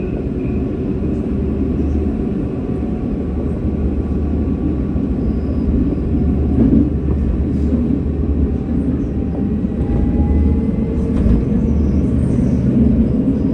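Tram running along its line: a steady low rumble from wheels and running gear, with faint whining tones that slowly shift in pitch and a few light clicks.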